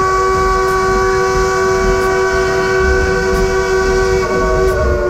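Steam locomotive's whistle blown in one long, steady chord of several notes, the chord shifting slightly about four seconds in.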